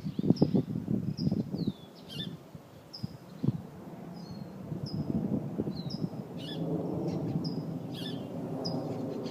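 Small birds at their nests, giving short, high, repeated chirps and brief down-sweeping calls. A run of loud low knocks and rustles comes in the first two seconds, and a steady low rumble builds from about halfway through.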